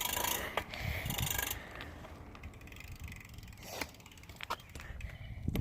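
Bicycle freewheel ratcheting in fast, even clicks as the bike coasts, stopping about a second and a half in; after that a quieter low rumble with a few scattered clicks.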